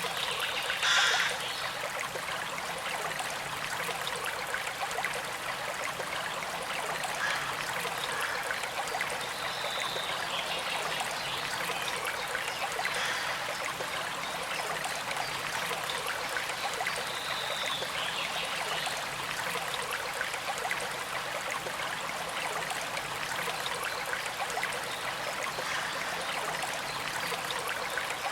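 A small creek flowing steadily, with a gentle trickling and burbling of water and a brief louder surge about a second in.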